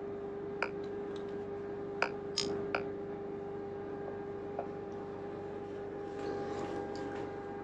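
Steady electric hum with a few short, sharp clicks from pet-grooming tools, most of them in the first three seconds.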